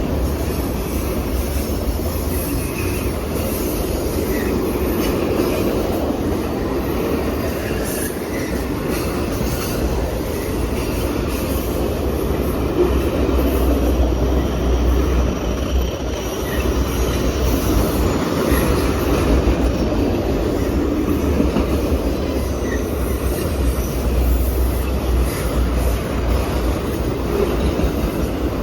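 Railway cars rolling past: a steady, continuous rumble of wheels on the rails with a few brief, faint wheel squeals.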